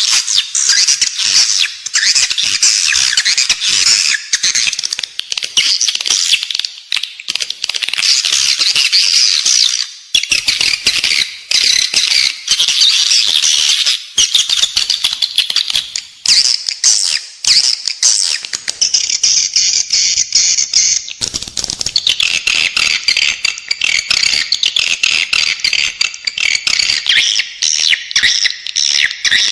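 Edible-nest swiftlets twittering and chattering in a dense, continuous stream of rapid high chirps and rattling calls. This is the in-building swiftlet call played inside a swiftlet house to lure the birds to roost and nest.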